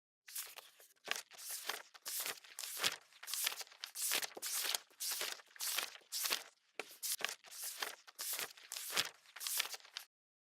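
Quick, crisp strokes of paper rustling and tearing, about two a second, stopping about ten seconds in.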